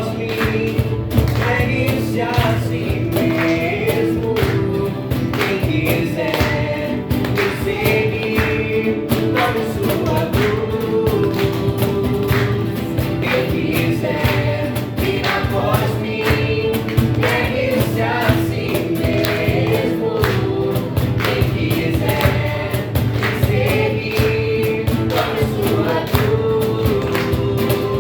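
Christian worship song: a choir singing over a band with a steady beat.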